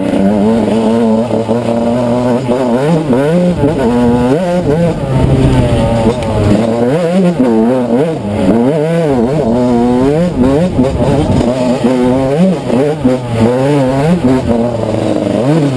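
Off-road motorcycle engine riding a dirt trail, its pitch rising and falling every second or so as the throttle is opened and closed.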